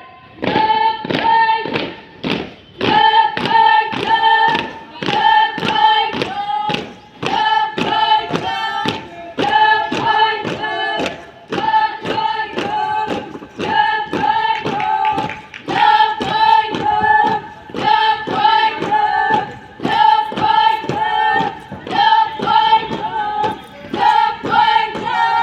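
Voices singing together in chorus, short notes in a steady, even rhythm.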